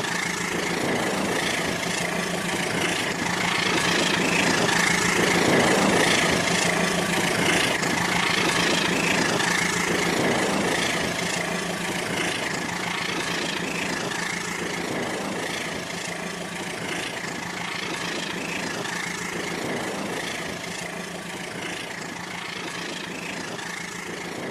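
Remote-control toy train running on its track, its small electric motor and gears whirring steadily, growing a little louder in the first few seconds and slowly fading after.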